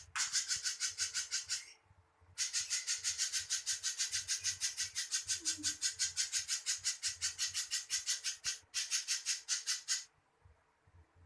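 Spiderhunter song: a fast, even string of raspy high notes, about six a second, delivered in three runs with short pauses between them.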